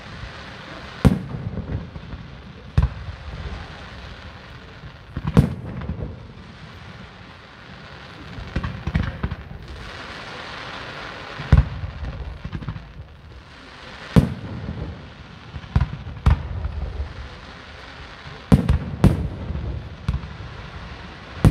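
Aerial fireworks display: about ten sharp bangs of shells bursting, spaced irregularly a second or few apart, each followed by a low rumble, with a stretch of hissing crackle around the middle.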